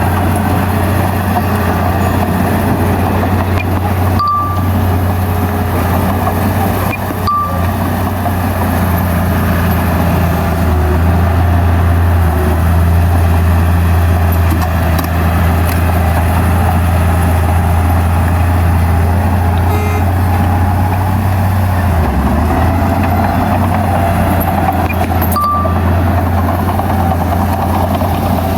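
Heavy diesel earthmoving machinery running steadily with a deep, continuous engine drone. Three short high blips cut in about 4, 7 and 25 seconds in.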